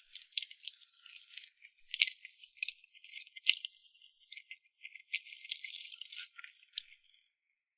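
Dry rattling and crinkling with many scattered sharp clicks, from crisp snack food being handled, ending a little before the end.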